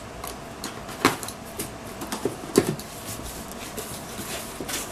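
Cardboard box and packaging being handled and pulled about: scattered knocks and scrapes, the loudest about a second in and about two and a half seconds in.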